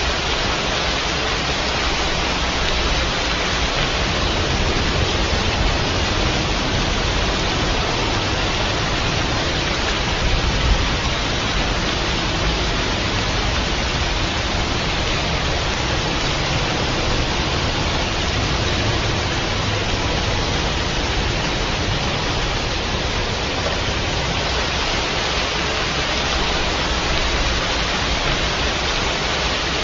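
Steady rainfall: an even, unbroken hiss with a low rumble underneath.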